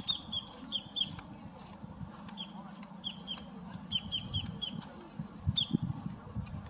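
Small birds chirping: many short, high chirps, often in quick runs of two to four, over low thuds of footsteps on a paved path.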